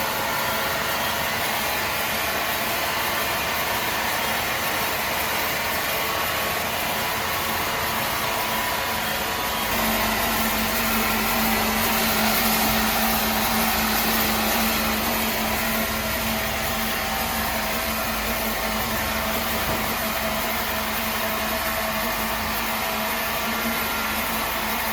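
A machine running steadily with a dense, even mechanical noise. About ten seconds in, a steady low hum joins and it gets slightly louder.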